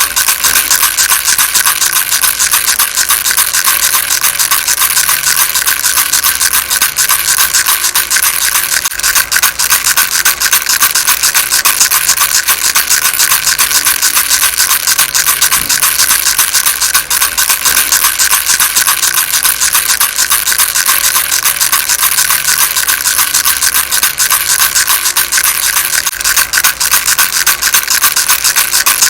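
A baby rattle shaken continuously: a dense, fast, high rattle that keeps up without a break.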